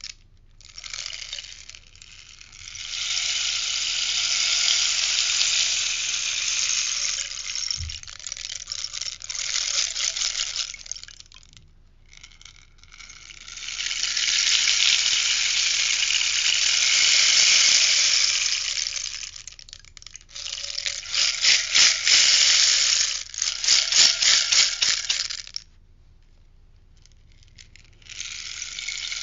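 Rainstick being tipped over and over, its beads pouring through it in long, even rattling cascades of several seconds each, with short gaps as it is turned. Later come quicker, choppier shakes with separate clicks, then a brief pause before it pours again.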